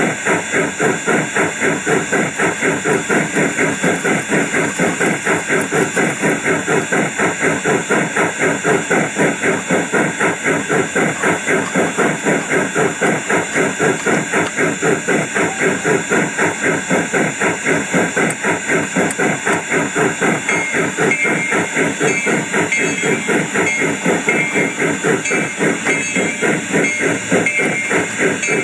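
Garden-scale model steam locomotive chuffing steadily at about three to four chuffs a second, with a hiss behind it. A repeating ringing tone joins in about twenty seconds in.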